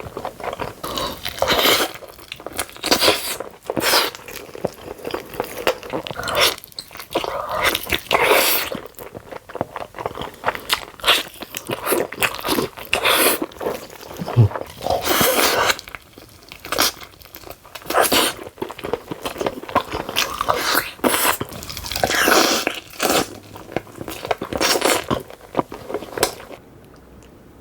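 Close-miked eating sounds of spicy cheesy Jamaican chicken: repeated crunching bites and wet chewing in irregular bursts, stopping just before the end.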